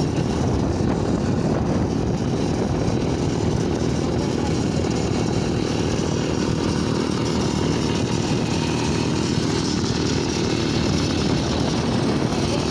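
Small engine of a homemade mini bike running steadily under way.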